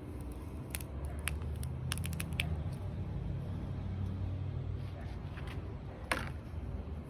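A few sharp clicks, a quick cluster of them about two seconds in and a louder one near the end, over a low steady hum.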